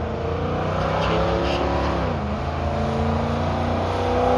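Drag-racing vehicle's engine under hard acceleration, its pitch climbing and then dropping sharply about two seconds in as it shifts gear, before climbing again. It gets louder near the end.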